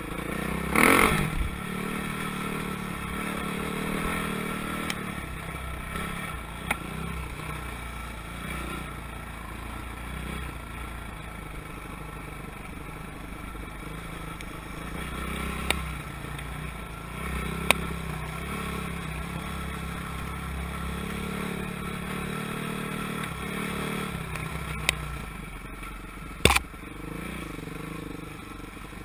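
Motocross dirt bike engines running and revving, their pitch rising and falling, with a loud rush about a second in and a few sharp knocks later on.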